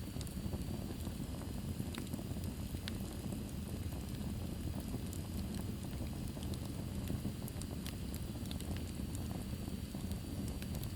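Wood fire burning in a fireplace: a steady low rush of flames with sharp, irregular crackles and pops from the burning logs.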